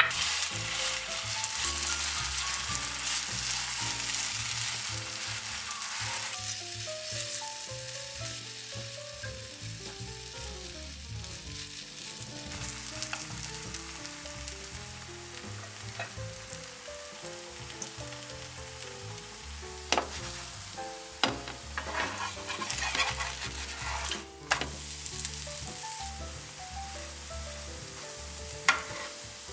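Grated-potato pancake batter frying in hot oil in a nonstick pan, sizzling loudest in the first few seconds as the batter goes in, then settling to a steadier sizzle. A wooden spoon spreads the batter, and in the second half a spoon and a spatula knock against the pan several times, giving sharp clicks.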